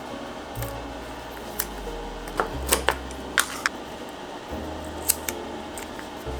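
Soft background music with several short, sharp clicks in the middle, bunched close together.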